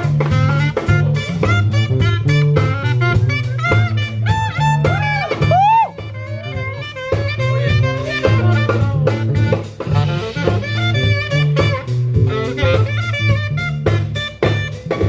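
Jazz music with a drum kit and a saxophone. The horn line bends up and down in pitch about five seconds in.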